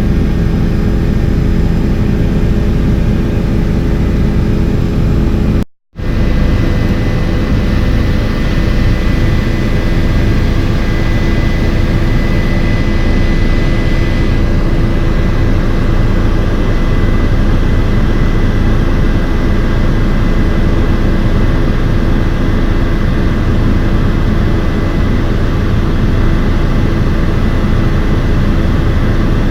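Helicopter engine and rotor noise, a loud steady drone with a constant hum of fixed tones, heard from inside the cabin. The sound cuts out completely for a fraction of a second about six seconds in, then resumes unchanged.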